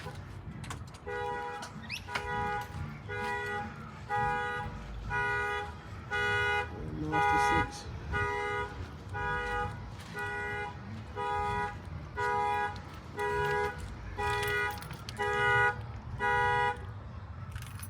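A car alarm sounding the horn in regular beeps, about one a second, each beep a two-tone honk.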